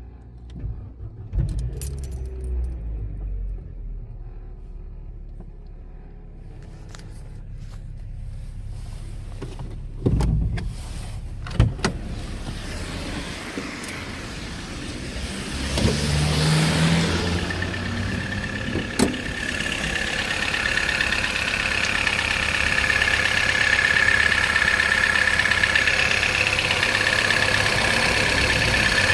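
Opel Astra H's 1.4-litre Z14XEP four-cylinder petrol engine running, with a knock whose cause the owner cannot identify. A few sharp knocks stand out about ten, twelve and nineteen seconds in, and a steady high whine builds up over the second half.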